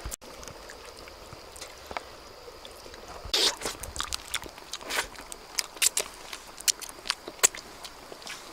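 Irregular sharp crunches and clicks, starting about three seconds in, over a faint steady high-pitched hum.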